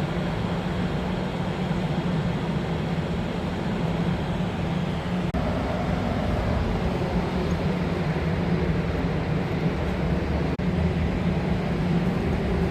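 Steady low mechanical hum over a bed of background noise, dropping out very briefly twice, about five and ten and a half seconds in.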